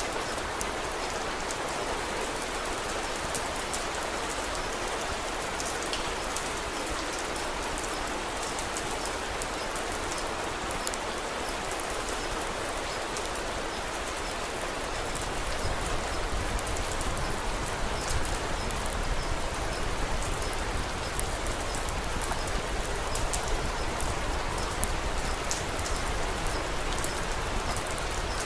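Steady rain falling, with sharp little ticks scattered through it; a low rumble joins in about halfway through.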